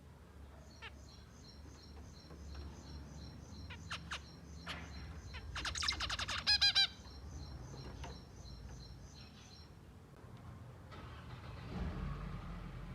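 Zebra finches calling: a steady run of short, high peeps at a few per second, with a burst of loud, nasal stacked calls about six to seven seconds in, the loudest part. A rustling noise follows near the end.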